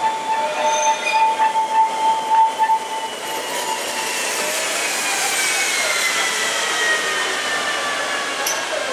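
Tramway du Mont Blanc electric rack-railway trainset rolling slowly past close by, with a steady squeal for about the first three seconds. Then high whines glide slowly down in pitch as the cars keep moving.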